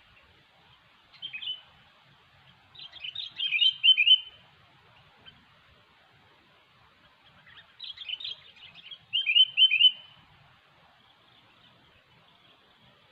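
Sooty-headed bulbul (kutilang) singing: a short call about a second in, then two phrases of quick chattering notes, around three and nine seconds in.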